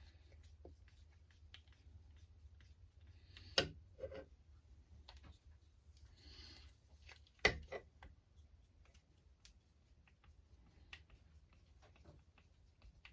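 Faint clicks and handling noises of small RC truck parts being worked by hand, with two sharper knocks, one a few seconds in and one about halfway through.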